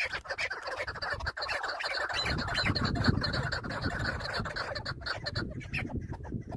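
Chukar partridges giving a rapid run of short clucking notes, with a low rumbling noise coming in about two seconds in.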